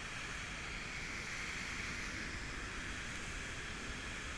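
Steady rushing of water pouring over the dam spillway: an even hiss with a low rumble underneath.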